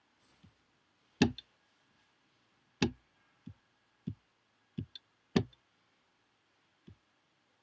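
A series of sharp, irregularly spaced clicks and taps, about eight in all, three of them noticeably louder than the rest.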